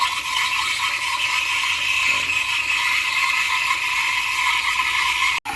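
Steam wand of a DeLonghi ECP 35.31 espresso machine hissing steadily into a pitcher of milk, set to hot milk to heat it without froth. The hiss breaks off for an instant near the end.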